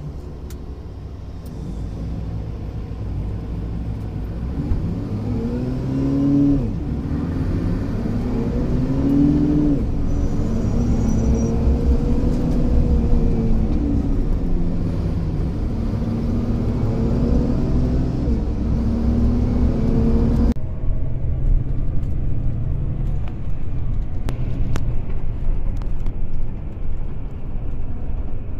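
A road vehicle's engine running while driving, its pitch rising and falling as it speeds up and slows, over a steady low rumble. The sound changes abruptly about twenty seconds in, its hiss cutting away.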